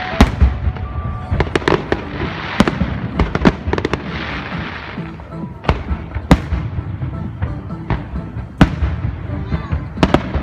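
Fireworks going off: irregular sharp bangs, with a stretch of crackling hiss about two to five seconds in.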